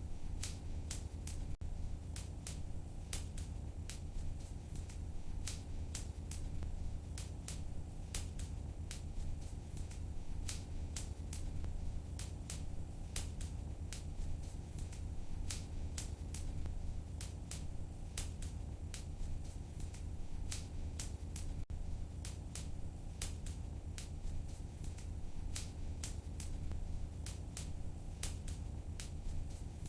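Wood fire burning in a fireplace: a steady low rumble with frequent sharp crackles and pops, several a second.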